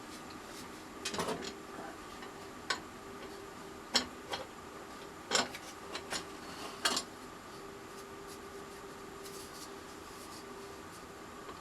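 A scattering of about eight light clicks and taps during the first seven seconds as thin plywood tray pieces and clamps are handled on the bench, then only a faint steady hum.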